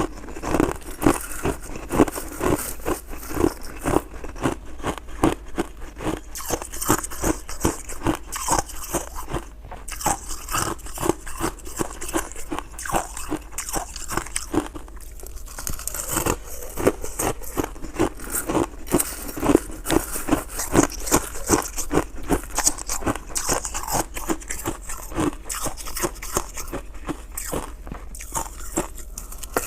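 Purple crystal shaved ice being bitten and chewed close to the microphone: a dense, uneven run of crisp crunches, several a second.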